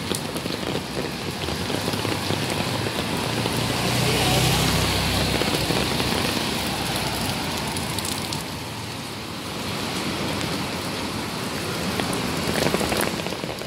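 Steady hiss of rain and wet traffic on a rain-soaked city street. A motor vehicle swells up about four seconds in and fades away by about six.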